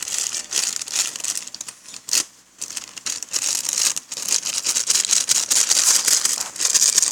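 Brownie mix packet crinkling and rustling as it is handled, a busy run of crackles with a short pause a little over two seconds in.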